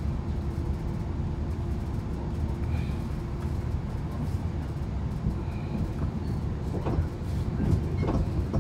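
Chiltern Railways diesel train running at speed, heard from inside the carriage: a steady rumble of wheels on the track, with a faint steady hum in the first few seconds and a couple of louder knocks near the end.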